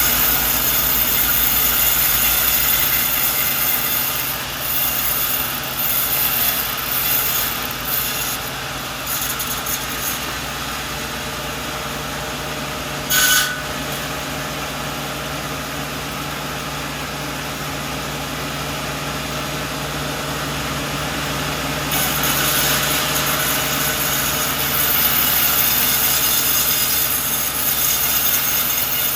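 Sawmill running and sawing through a coconut log, a steady machine hum under the noise of the cut. A short sharp clink about halfway through.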